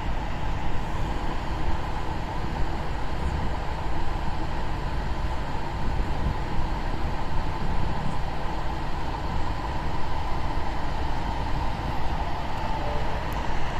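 Steady running noise of a moving vehicle: a continuous low rumble with a steady hum over it.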